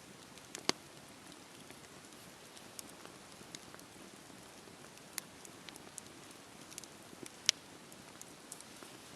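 Wood fire crackling: a soft steady hiss with scattered sharp pops, two of them louder, one near the start and one about three-quarters of the way through.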